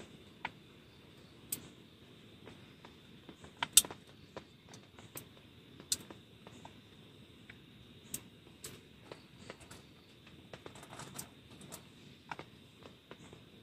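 Irregular light clicks and taps, scattered and unevenly spaced, with one sharper click about four seconds in.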